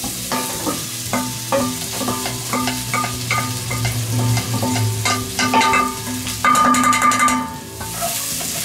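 Diced sausage and vegetables sizzling in a hot cast-iron Dutch oven as they are scraped in from a stainless steel bowl with a wooden spoon. Knocks and scrapes of the spoon against the bowl run over a steady hiss of frying, thickest near the end.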